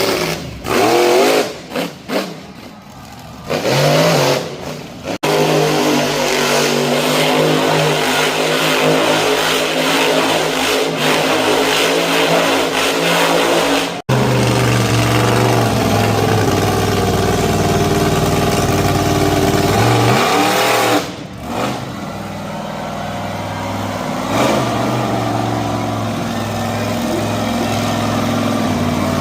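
Monster truck engines running hard and revving, their pitch rising and falling in bursts. The sound changes abruptly several times, as one clip cuts to the next.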